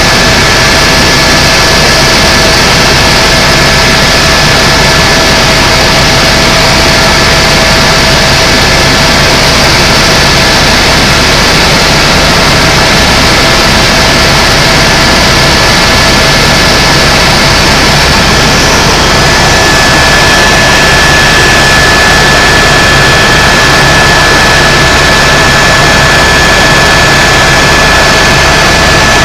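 Tour helicopter running in flight, heard from inside the cabin: a loud, steady drone of engine and rotor noise with a few high steady whining tones over it.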